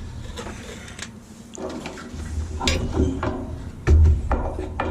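Hand work on a washing machine's motor assembly: a scattered series of sharp clicks and knocks, about half a dozen, as small metal and plastic parts and tools are handled, with a low rumble of handling underneath.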